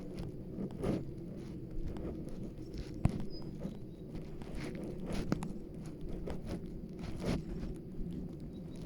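Footsteps of a person walking on a forest trail, irregular steps about a second apart, over a steady low rumble.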